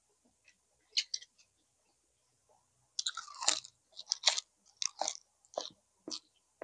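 A person chewing and biting food: a few scattered strokes, a dense cluster of bites about halfway through, then steady chewing at roughly two strokes a second.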